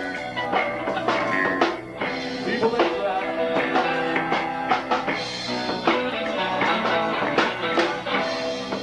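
Live three-piece rock band of guitar, bass guitar and drum kit playing a song, with sustained guitar notes over regular drum hits.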